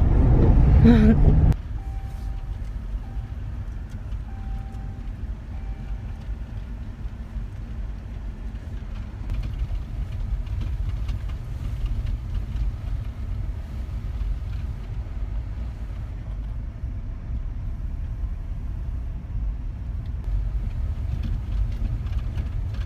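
Steady low road and engine rumble heard inside a moving car's cabin. A few seconds in come three short beeps.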